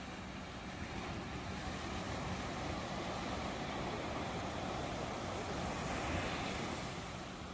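Ocean surf washing in as a continuous rushing noise, swelling slightly about six seconds in and easing toward the end.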